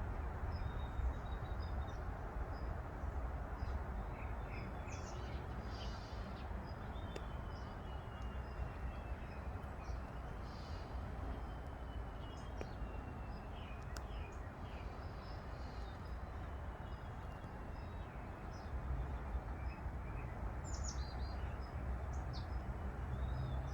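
Outdoor ambience: small birds chirping now and then, short high calls scattered throughout, over a steady low rumble and hiss.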